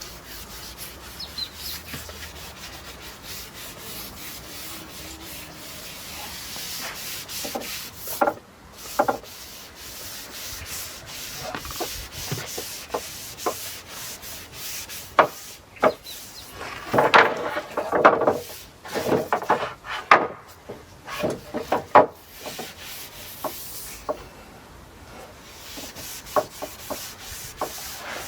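Brush stroking oil onto European larch planks: repeated rubbing strokes across the wood with short clicks, busiest and loudest from about seventeen to twenty-two seconds in.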